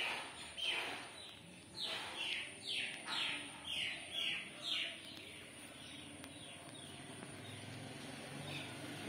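A bird calling outdoors: a quick run of clear notes, each sweeping downward, about two a second. They fade after about five seconds, leaving a few fainter calls and a faint low hum.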